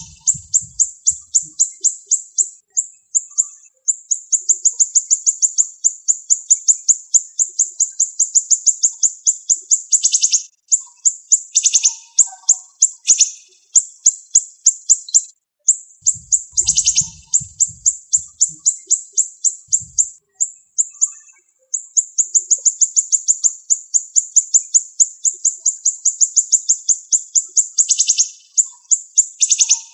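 Siri-siri songbird singing fast, sharp, high-pitched rapid-fire phrases of closely packed notes. The phrases come in long runs, broken by a few short pauses about a third and two-thirds of the way through.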